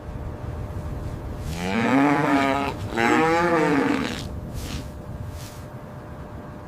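A bovine lowing: two long moos in quick succession, each wavering in pitch.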